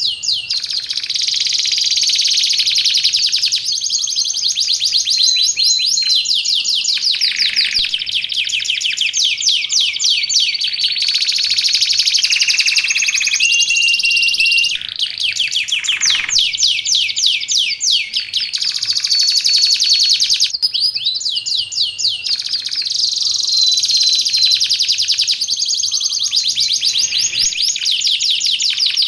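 Domestic canary singing without pause: long runs of fast, high trills and rolls, with short held whistled notes between them.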